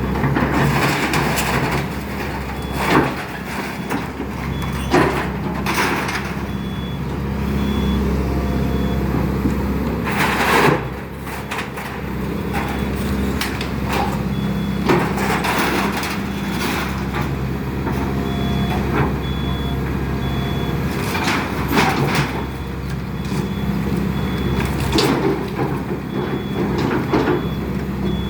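Diesel excavator running steadily while it tears into a wooden house, with repeated wood cracks and crunches every few seconds. A faint repeated high beep sounds in two spells.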